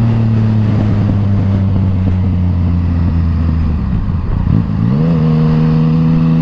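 Yamaha MT-09 three-cylinder engine with an Akrapovič exhaust running under way, holding a steady note. About four seconds in the note dips and goes uneven, then rises quickly and settles at a higher steady pitch.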